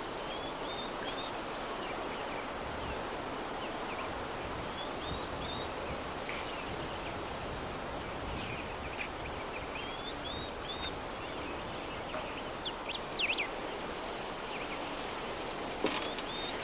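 Soft, steady breeze with small birds chirping off and on over it, and a brief louder flurry of quick falling chirps about two-thirds of the way through.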